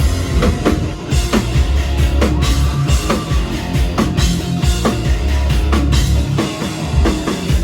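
Live rock band playing loudly: drum kit with regular hits, heavy bass and electric guitar.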